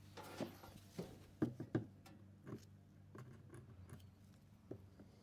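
Small wire staple pins being snipped off flush with pliers: a handful of faint, sharp clicks spread over a few seconds, three of them close together about one and a half seconds in.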